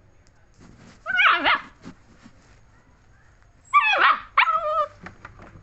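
German shepherd puppy giving three high, wavering yelping whines: one about a second in, then two close together near the four-second mark.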